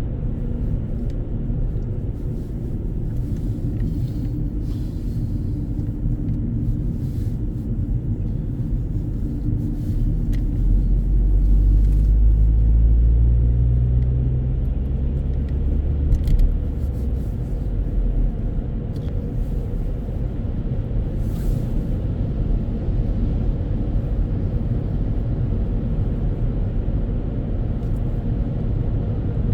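Steady road and engine rumble of a car driving, growing louder with a low drone for a few seconds around the middle.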